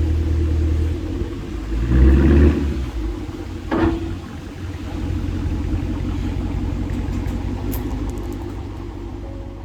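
Dodge Charger R/T's 5.7 Hemi V8 exhaust rumbling at idle. A short rev comes about two seconds in and a brief blip near four seconds, then it settles back to a steady idle that grows fainter near the end.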